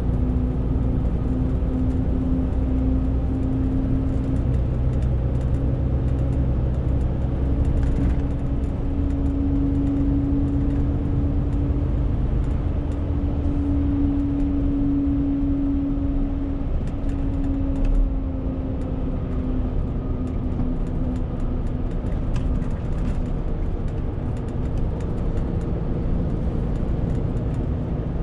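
Renault T520 truck's six-cylinder diesel engine running steadily with a 40-tonne load, a constant drone with a strong hum. The deep rumble eases off about halfway through, and there is a single thump about two-thirds of the way in.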